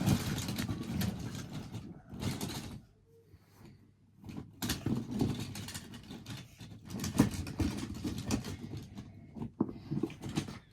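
Die-cast toy monster trucks clattering and scraping against each other as someone rummages through a box full of them, with a run of irregular clicks and knocks and a brief lull about three seconds in.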